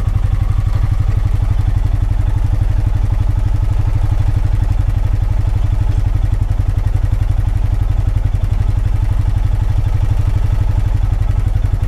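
Honda Pioneer 520 side-by-side's single-cylinder engine idling steadily, with a rapid, even pulse.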